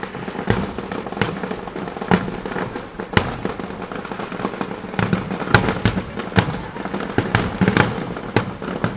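Aerial fireworks bursting in quick, irregular succession: many sharp bangs and cracks, several a second, some louder than others, over a steady rumble of the ongoing display.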